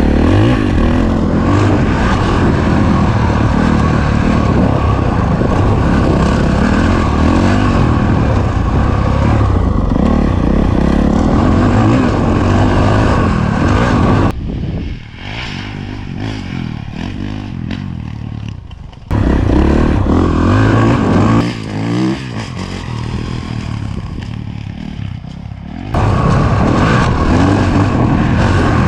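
Honda CRF450RWE single-cylinder four-stroke motocross bike being ridden hard, its engine revving up and down as the throttle is worked. About halfway through it drops to a much quieter level for some five seconds, comes back loud, then falls quiet again for several seconds before returning near the end.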